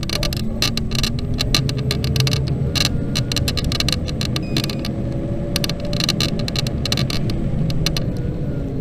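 Xiaomi M365 electric scooter in motion: a steady rumble and faint motor hum, broken by clusters of sharp creaking clicks that come every second or so, the creak the scooter is known for.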